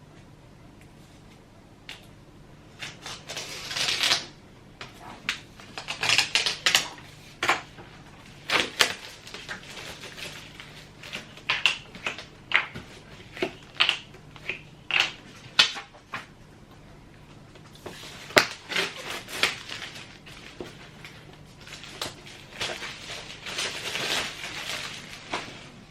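Small objects being handled on a work table: an irregular run of sharp clicks, taps and short rustles, with brief pauses between bursts.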